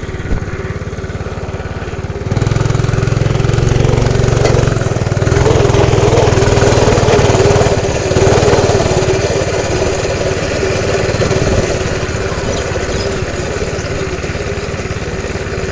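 Dirt bike engine running as the bike rides off: it revs up about two seconds in, runs hard for several seconds, then eases to a lower, steady run near the end.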